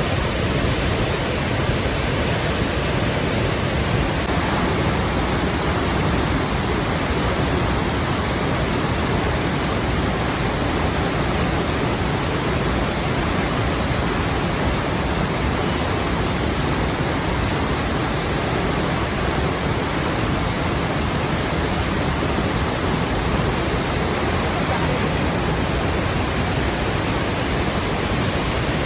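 Flowing water rushing steadily, an even, unbroken wash of sound from low to high pitch with no changes.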